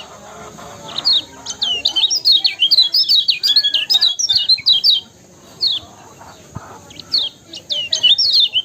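Kecial kuning (a white-eye) singing: fast, high chirping phrases of quick rising and falling notes, a long run in the first half, then a few lone notes before the next phrase starts near the end.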